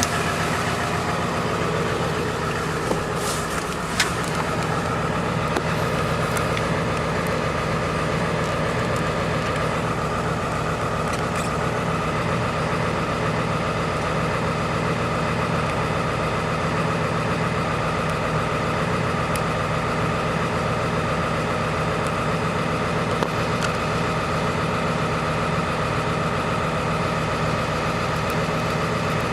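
2002 Ford F-250's 7.3-litre Power Stroke V8 turbo diesel idling steadily while still cold from a cold start. It drops from a louder run to a steady idle right at the start, with a few faint clicks over it.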